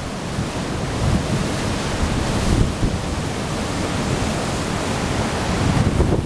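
Strong wind gusting against the microphone over a steady rushing noise, typical of the gusty conditions left as a typhoon passes.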